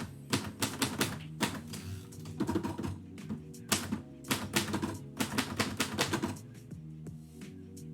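1949 Royal Quiet Deluxe manual typewriter: keys striking in quick, irregular runs that stop about six seconds in. Background music with steady bass notes plays throughout.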